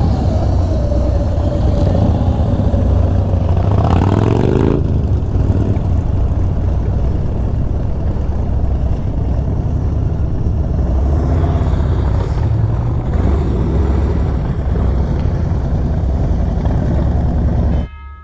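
Honda Africa Twin motorcycle engine running while riding, over a steady rush of road and wind noise. About four seconds in its pitch rises as the bike accelerates. The sound cuts off abruptly near the end.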